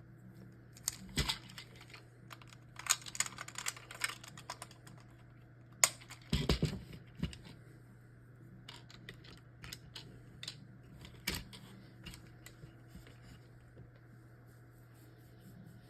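Hard plastic parts of a DX Universe Engine Oh combining toy robot clicking and snapping as it is handled and combined. The clicks come in irregular clusters, with a heavier knock about six seconds in.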